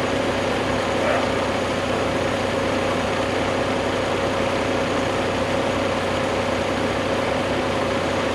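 A heavy vehicle engine running steadily at an even speed, with a low, regular pulsing and no change in pitch.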